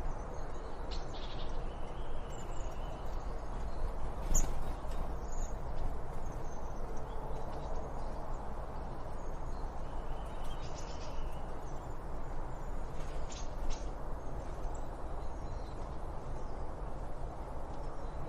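Wild birds giving short, scattered high chirps and calls over a steady background rushing noise.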